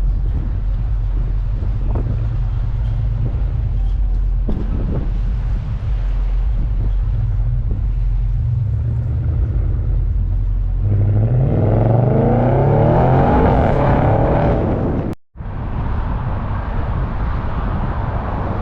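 Exhaust of a C7 Audi S6's twin-turbo V8, with the front resonators and rear mufflers deleted and only the big centre suitcase muffler kept, making a steady low drone. About eleven seconds in it revs up, rising in pitch and getting louder for a few seconds. Then the sound cuts out for an instant and the low drone resumes.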